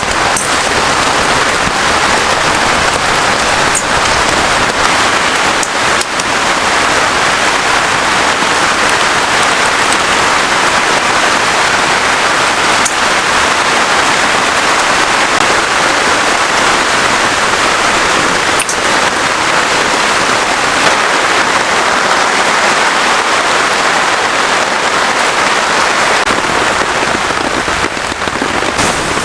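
Heavy rain falling steadily in a downpour, with a few sharp drop ticks standing out here and there.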